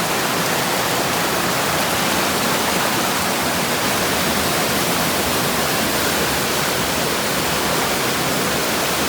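Waterfall on a rocky stream: a steady, even rush of falling water with no change throughout.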